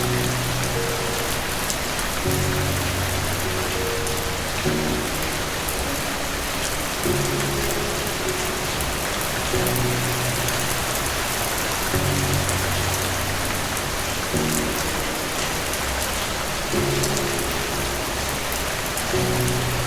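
Steady heavy rain falling, with soft, slow low music notes under it, a new note about every two and a half seconds.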